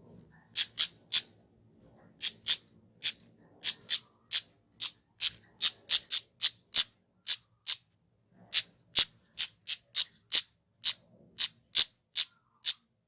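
Kemade flowerpecker calling: a series of short, sharp, very high single notes, about two a second, with a brief pause midway.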